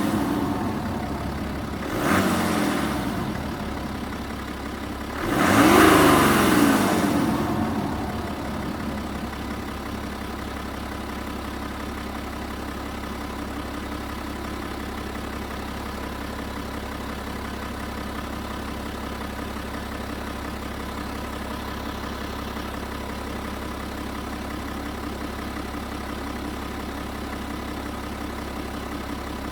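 BMW N57D30A 3.0-litre turbodiesel inline-six revved with short throttle blips: one brief blip about two seconds in and a bigger rev about five seconds in that rises and falls back. It then settles into a steady idle for the rest of the time.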